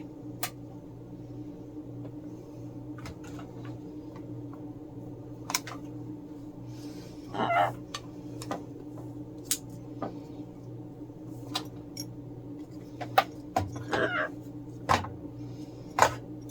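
Scattered sharp clicks and clatter of small hard objects being handled, with short rattly spells about halfway and again near the end, over a steady low hum.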